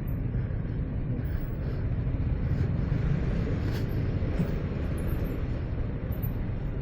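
Motorcycle engine running at low speed, a steady low rumble with no sharp events.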